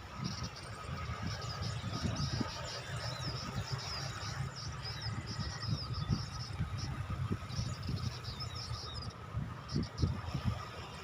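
Small bird giving quick, high chirps in rapid clusters that stop near the end, over a low, uneven rumble.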